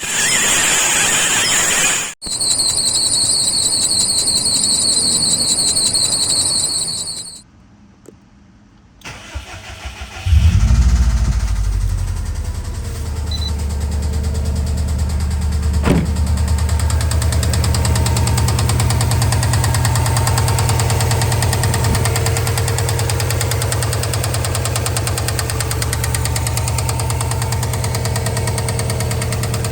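Subaru EJ205 turbocharged flat-four starting about ten seconds in and then idling steadily. The engine has an abnormal noise that the owner suspects is a worn No. 3 bearing. Before the start there are several seconds of an unidentified noise with pulsing high tones.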